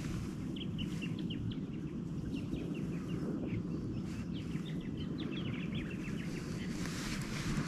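Small birds chirping, many short high chirps a second, over a steady low background rumble.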